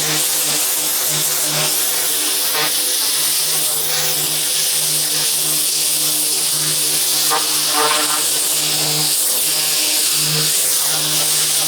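Pressure washer running steadily: a constant motor and pump hum under the hiss of the high-pressure water jet spraying.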